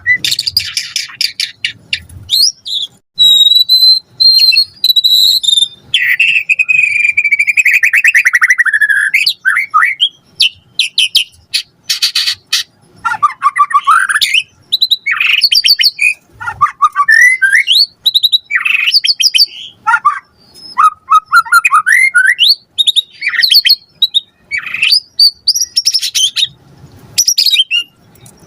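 White-rumped shama (murai batu) singing a long, varied song in quick succession: clear high whistles, a long fast buzzing trill that falls slowly in pitch, dry rattles and many short swooping notes, with only brief gaps between phrases.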